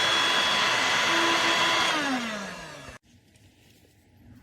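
Dirt Devil Vibe corded stick vacuum running steadily with a high whine, then switched off about two seconds in, its motor winding down in falling pitch until the sound cuts off suddenly.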